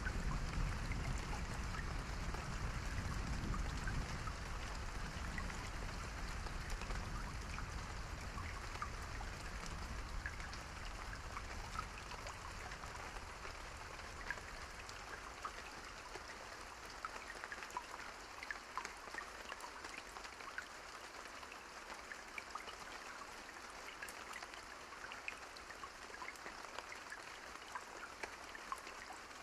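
Steady rain falling, with many small drops ticking close by. A low rumble of thunder dies away over the first half.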